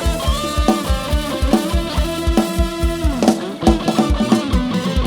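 Isan pop music from a rot hae music truck's band and sound system, in an instrumental passage without singing: a fast, steady kick-drum beat of about four beats a second under melodic instrument lines.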